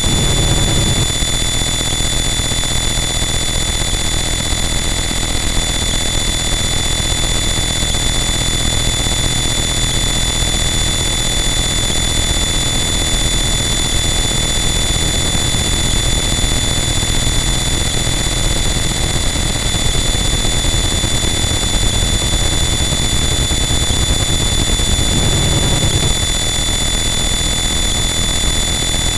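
Harsh noise wall: a dense, unchanging wall of loud distorted static with steady high-pitched whining tones running through it and a low rumble underneath that swells briefly near the start and again near the end.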